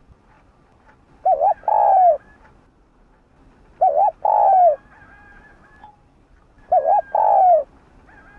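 Spotted dove cooing: three calls about two and a half seconds apart, each a quick double note followed by a longer coo that falls in pitch.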